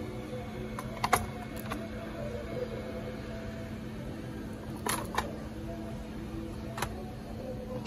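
A few sharp, light clicks over a steady low hum: a pair about a second in, another pair near five seconds, and a single one near seven seconds.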